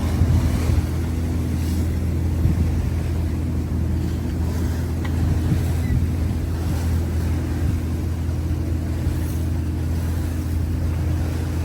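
Trawler's engine running steadily at cruising speed, with wind and sea noise over it.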